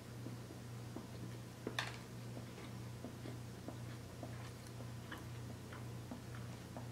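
Close-miked chewing of a soft sausage, egg and cheese biscuit sandwich: faint, irregular wet mouth clicks, one sharper click a little under two seconds in, over a steady low hum.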